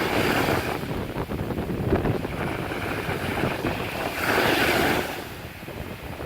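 Sea waves breaking and washing on the shore, with one wave surging up strongly about four seconds in and falling away about a second later. Wind rumbles on the microphone underneath.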